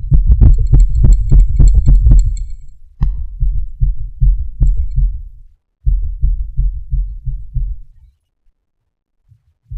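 Close-microphone ASMR makeup sounds: rapid, muffled thuds and rubs of a tool or hands on the microphone, with light crisp clicks over the first three seconds. They come in three bursts and stop about eight seconds in.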